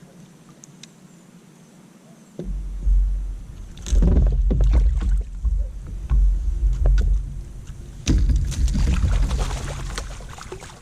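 Heavy thumps, knocks and clatter against a kayak's hull and gear, starting about two and a half seconds in, as a fish is brought aboard clumsily. The loudest stretches are a couple of seconds in the middle and another near the end.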